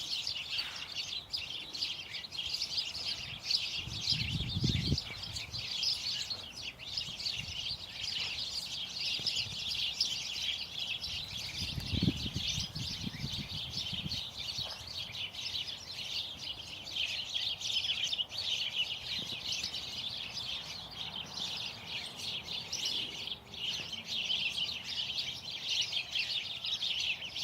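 A flock of small birds chirping continuously in bamboo, many chirps overlapping into a steady chorus. Two brief low rumbles come through underneath, about four and twelve seconds in.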